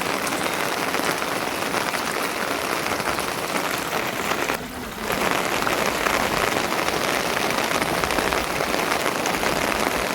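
Steady rain falling, with a brief drop in level about halfway through.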